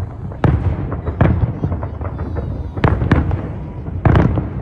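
Aerial fireworks shells bursting in a rapid series of sharp bangs, each trailed by a low rumbling echo, with a tight cluster of reports near the end.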